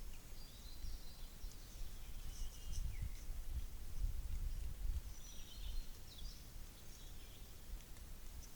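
Wind buffeting the microphone in uneven low gusts, with small birds chirping and trilling faintly now and then.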